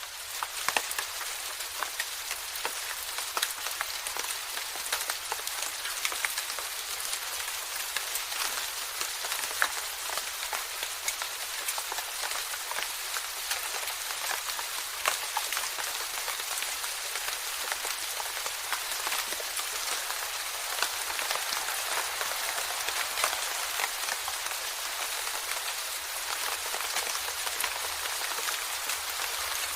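Steady rain falling, with many individual drops ticking sharply against a surface over a dense even hiss.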